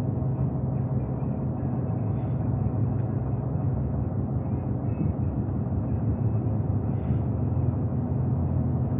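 Steady low rumble of a truck's engine and tyres on the road, heard from inside the cab, with a couple of faint ticks.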